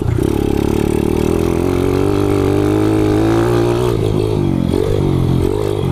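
Kawasaki KLX110 pit bike's single-cylinder four-stroke engine, bored out to 165 cc and fitted with an FMF exhaust, running under load while being ridden. It holds fairly steady revs for about four seconds, then the revs rise and fall several times.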